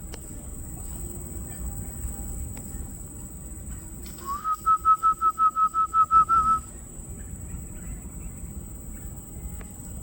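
A bird calling a rapid series of about a dozen clear whistled notes on one pitch, about five a second, opening with a short upward slide. Behind it there is a steady high-pitched buzz, likely insects.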